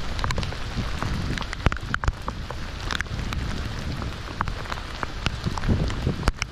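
Steady rain falling on the sea: an even hiss with many scattered, sharp drop taps.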